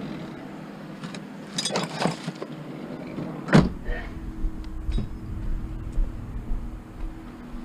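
Metal tools clattering and rattling as they are rummaged through, then one sharp loud knock about three and a half seconds in, followed by a low rumble and a few lighter knocks over a faint steady hum.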